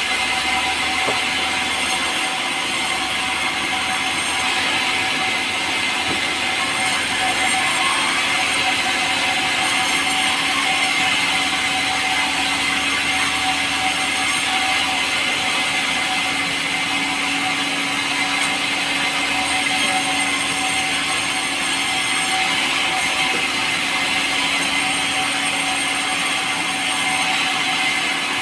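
Power saw running steadily through a pulai log, a light, soft timber, with a constant machine drone and no break in the cut.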